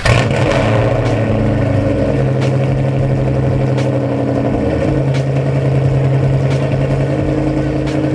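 A Ford Mustang GT's 4.6-litre V8, with Comp Cams 262 camshafts, long-tube headers and SLP LoudMouth exhaust, fires up on a cold start and then idles steadily and loudly. The startup is freaking vicious, and the car has sat a couple of days cold.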